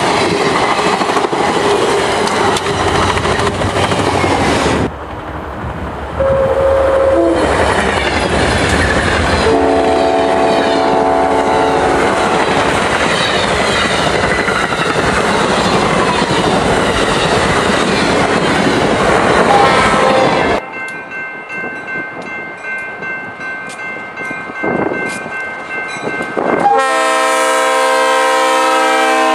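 Amtrak passenger train passing at speed: the steady rumble and clatter of the cars' wheels on the rails, with a train horn sounding for about two seconds partway through. After a cut, a Norfolk Southern EMD diesel locomotive approaches and sounds its horn in a long blast near the end.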